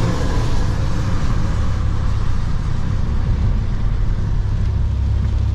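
Steady low rumble of road and tyre noise inside a moving car's cabin at highway speed, with a lighter hiss that fades over the first second or two.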